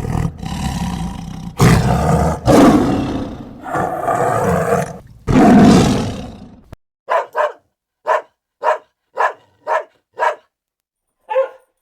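A large animal roaring several times in long, rough roars. It cuts off abruptly and is followed by a dog barking in a quick series of short barks, about two a second, with one more bark near the end.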